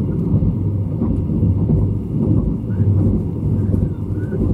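Running noise heard inside a Thai sleeper-express carriage: a steady low rumble of the wheels on the rails and the car body, with a constant low hum underneath.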